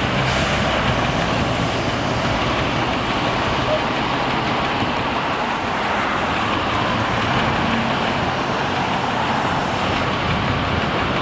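Steady street traffic noise with vehicle engines running, even and unbroken.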